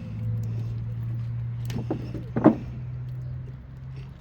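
A steady low engine hum that drops off a little near the end, with a few short knocks over it, the loudest about two and a half seconds in.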